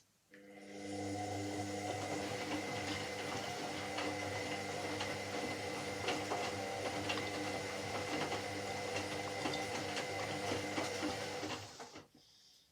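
Washing machine motor turning the drum: a steady run with a constant hum and whine and scattered clicks. It starts about half a second in, comes up to speed within a second, then stops near the end, as in the stop-start tumbling of a wash phase.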